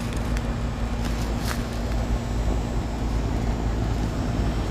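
Steady low hum of a running Williamson heat pump's outdoor unit, its compressor and fan running, with a faint steady tone; a light click about a second and a half in.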